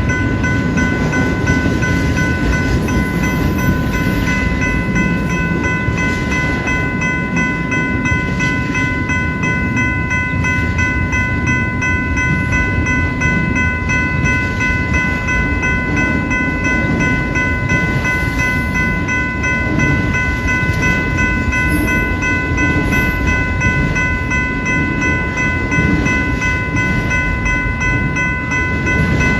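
Freight train rolling past a grade crossing with a steady rumble, while the crossing signal's bell rings as one continuous high tone.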